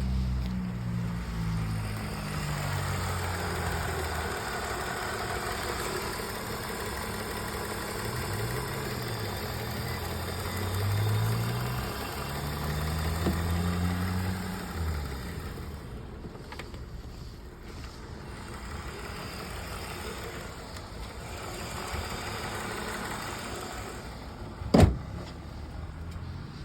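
BMW car engine running, its revs rising and falling several times, then settling to a quieter, steady run. A single sharp thump comes near the end.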